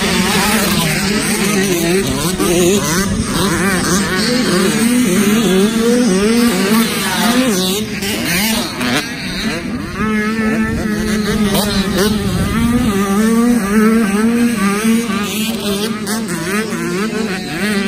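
Motocross dirt bike engine revving up and down again and again as the rider works the throttle.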